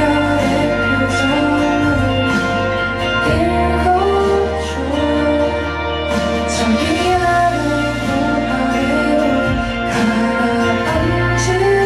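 A woman singing a pop song live over instrumental accompaniment with sustained bass notes.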